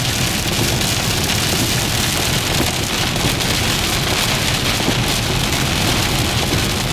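Heavy rain pelting a car's windshield and body, heard from inside the moving car along with its road noise: a loud, steady hiss.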